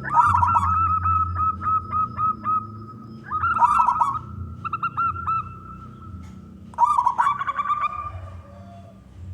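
Male zebra dove (perkutut) singing its cooing song: phrases of quick, hooked notes at one steady pitch, four phrases with short pauses between them, over a low hum.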